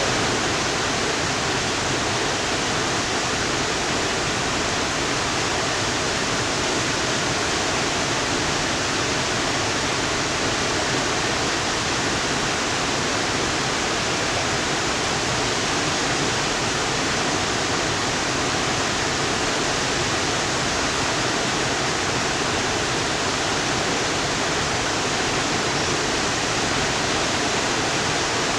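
Tegenungan waterfall's water crashing down in a steady, unbroken rush.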